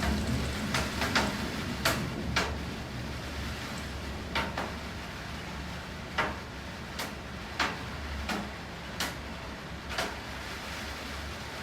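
Steady rain hiss with a dozen or so irregular sharp taps of heavy drops hitting a hard surface, closer together in the first couple of seconds and sparser after. A low thunder rumble dies away in the first second or so.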